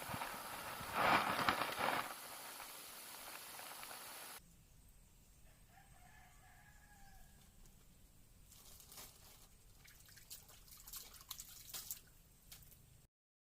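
A loud bird call about a second in, lasting about a second, over a steady background hiss. The sound then drops suddenly to a much quieter stretch with faint scattered clicks.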